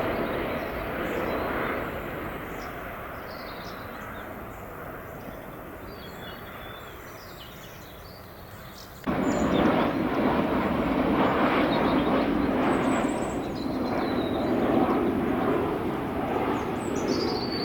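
Airliner passing overhead, its engine noise fading away over several seconds. About halfway through the sound cuts abruptly to a louder steady rush, with a few faint high chirps above it.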